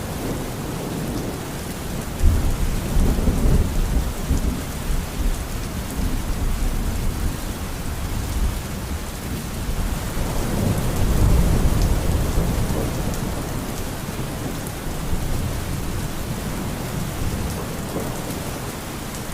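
Steady rain with rolls of low thunder, one starting about two seconds in and a longer, louder one about ten seconds in.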